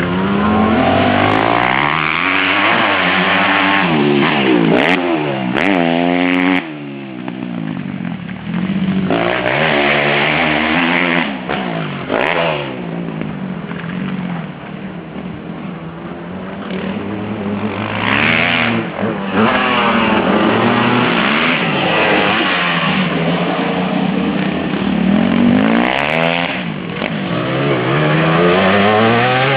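Suzuki RM-Z250 motocross bike's four-stroke single-cylinder engine revving hard and backing off over and over, its pitch climbing and falling as it works through the gears.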